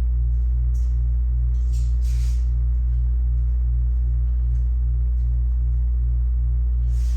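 Loud steady low electrical hum, with a few faint clicks and rustles of small plastic mouse parts being handled over it.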